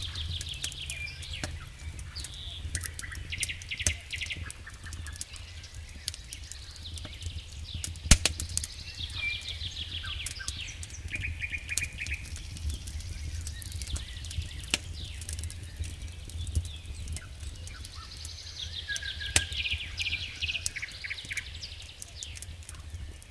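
Songbirds singing in trills and quick repeated chirps over a crackling campfire, with sharp pops scattered throughout, the loudest about eight seconds in. A steady low rumble runs underneath.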